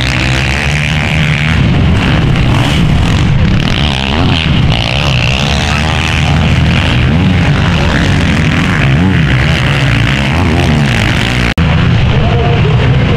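Motocross bikes racing, several engines at high revs overlapping, their pitch rising and falling with the throttle. The sound cuts off abruptly for an instant near the end, then carries on.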